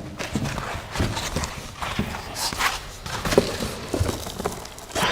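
Parts and packing material being handled during unboxing: irregular knocks and taps mixed with rustling of packaging.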